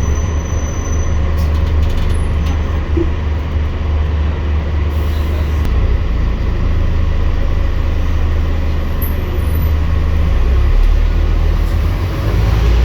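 Scania N230UD double-decker bus's five-cylinder diesel engine running, a steady low drone whose pitch shifts a few times.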